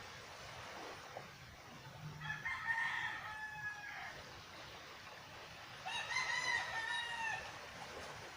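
Rooster crowing twice, each crow lasting about one and a half to two seconds, over a steady faint hiss.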